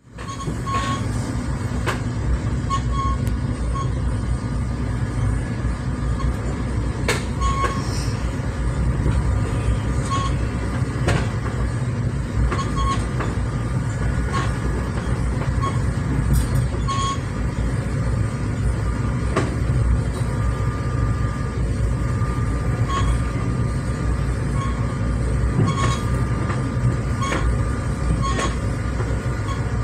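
Steady rumble of a commuter train riding on the rails, heard from inside the coach, with occasional sharp clicks from the wheels and track, while a double-stack intermodal freight train rolls past close alongside.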